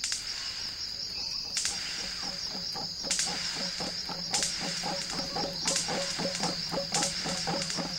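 Rainforest ambience: a steady high-pitched insect drone, sharp rasping pulses about every second and a half, and from about two seconds in a fast, even pulsing chorus lower down.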